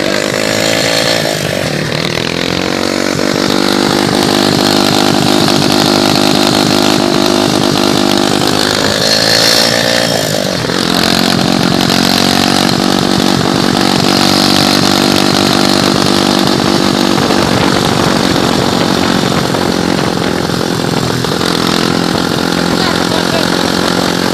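Kayak 150 engine running steadily while being run in after assembly. It revs up briefly about nine to ten seconds in and drops sharply back to its steady speed.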